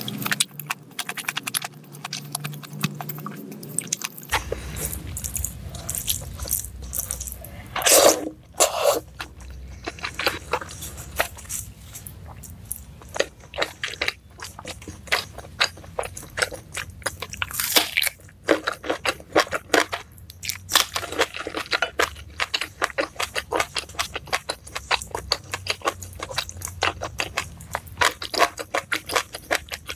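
Close-miked eating sounds of a person chewing rice and Padang dishes, with dense wet clicks and crunching. There are louder bursts of chewing about 8 seconds in and again near 18 and 21 seconds.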